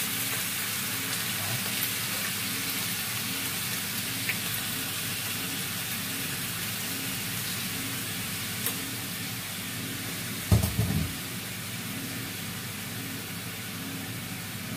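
Squid pieces sizzling as they fry in a small nonstick pan on a gas burner, stirred with a spoon that clicks against the pan now and then. A dull knock about ten and a half seconds in.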